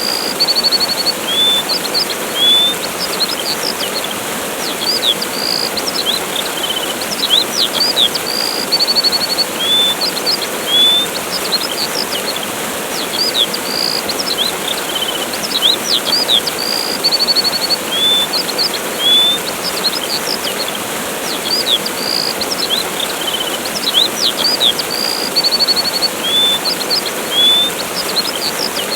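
Steady rush of a waterfall with small birds chirping and trilling over it in quick, high calls. The same run of bird calls comes round again about every eight seconds, as in a looped recording.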